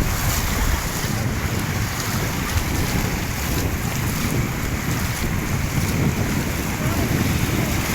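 Wind buffeting the microphone, a fluttering low rumble over a steady rushing noise like waves.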